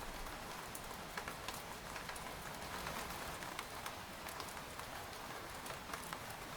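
Steady rain falling on a tent, with many individual drops ticking sharply on the fabric at irregular intervals over a soft continuous patter.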